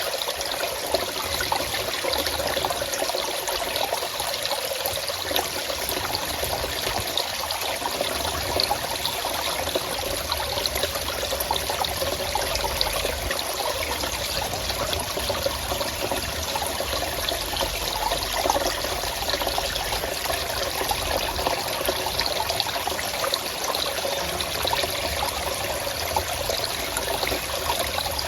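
Forest stream water trickling and flowing steadily, with a fine, unbroken splashing.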